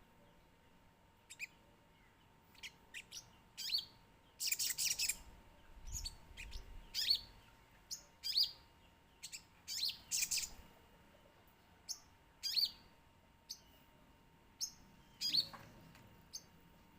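A songbird singing in short, quick, sharply falling chirps, scattered irregularly, with a few denser bursts in the middle.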